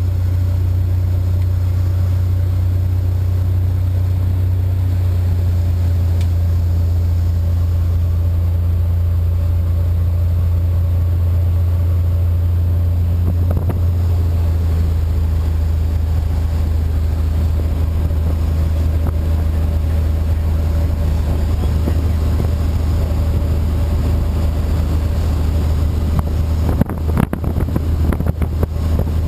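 Cessna 180's six-cylinder piston engine and propeller droning steadily, heard from inside the cabin with wind noise. Near the end, irregular knocks and rattles join the drone.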